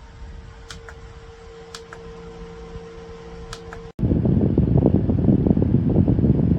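Battery-powered camping fan running: a steady hum with a faint held whine and a few light clicks. About four seconds in, a cut to much louder rushing air as the fan's airflow buffets the microphone.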